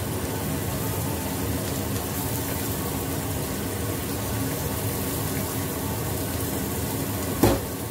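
Egg omelette with spring onion frying in a pan with a steady sizzle while a wooden spatula turns and presses it. One sharp knock comes near the end.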